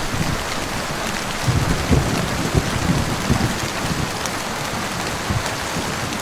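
Steady rain falling on a surface, with short irregular low thuds underneath.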